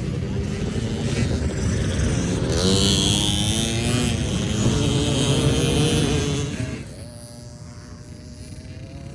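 Honda CRF110 dirt bike's small single-cylinder four-stroke engine revving and changing pitch as it rides past, loudest in the middle. Near the end the sound drops away suddenly to a fainter steady engine hum.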